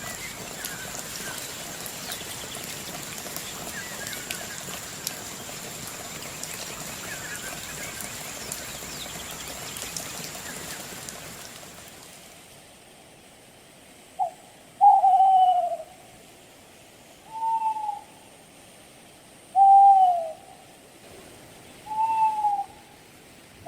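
Steady outdoor hiss with a thin high whine and faint chirps, fading out about halfway. Then an animal gives a loud, hollow, hoot-like call, one note bending downward, repeated about every two and a half seconds.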